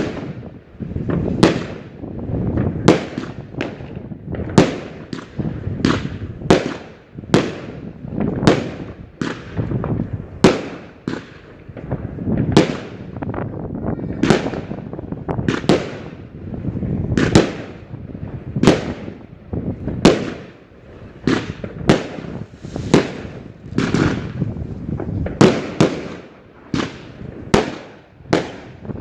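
New Year's fireworks display: aerial shells bursting in a steady barrage of sharp bangs, roughly one to two a second, each trailing off, over a continuous low rumble.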